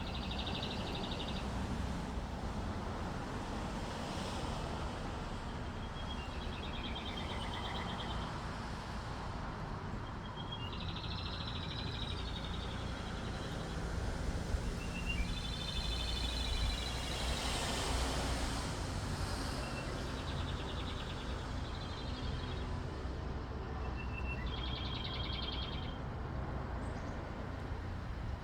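A small songbird in tree branches repeating a short song phrase every few seconds: a thin lead-in note followed by a fast trill of about a second. A steady low rumble runs underneath.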